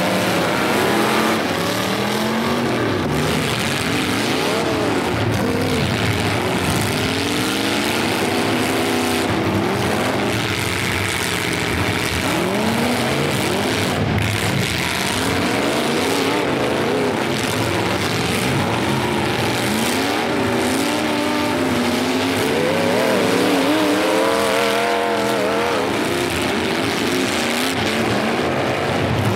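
Several demolition derby cars' engines revving and running at once, their pitches rising and falling constantly as they accelerate and back off.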